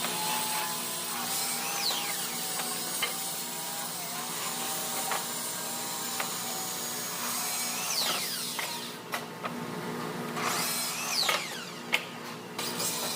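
Woodworking power tools running with a steady hum. Scattered sharp clicks and knocks are heard, and a high whine falls in pitch about three times.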